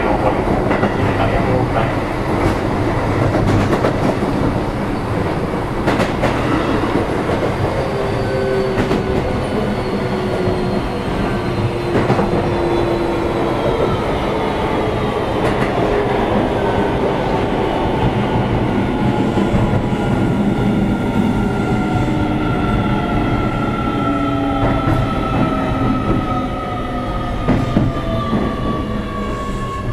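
Keio 7000-series electric train running, heard from inside the car: a steady rumble with wheel clicks over rail joints, and an electric motor whine that slowly falls in pitch as the train slows.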